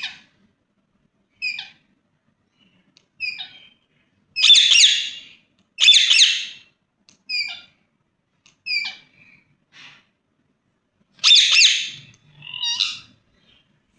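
Ringneck parakeet calling: short shrill squawks every second or two, broken by three louder, harsher screeches.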